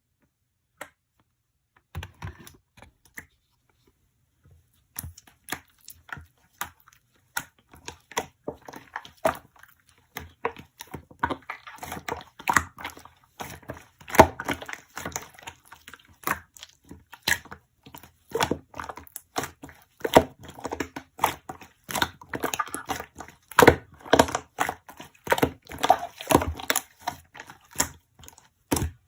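Slime being squeezed, pressed and poked by hand: a run of sharp clicks and crackles. They start sparse about two seconds in and grow dense after about five seconds.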